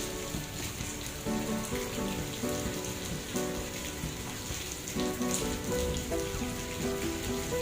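Heavy rain falling steadily on a surface, a dense continuous hiss. A slow melody of held notes plays quietly under it.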